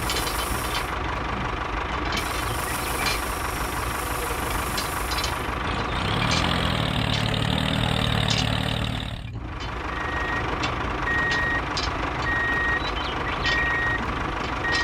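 A vehicle engine runs steadily. From about two-thirds of the way in, a reversing alarm beeps regularly about once a second.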